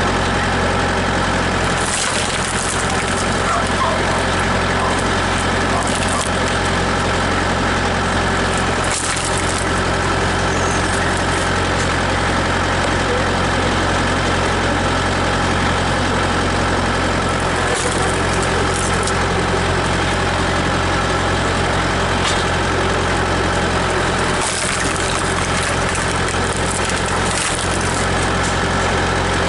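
Tractor engine running steadily, driving a screw-cone log splitter. A few sharp cracks are heard as logs split on the cone.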